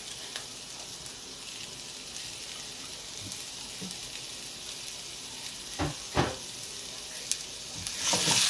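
Butternut squash cubes and onions sizzling in hot oil in a non-stick wok, a steady hiss. There are two short knocks about six seconds in, and near the end the sizzling grows louder as the pan is stirred with a silicone spatula.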